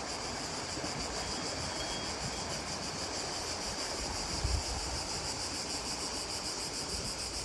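Steady high insect chorus, finely pulsing, over a constant rushing noise, with a brief low bump about four and a half seconds in.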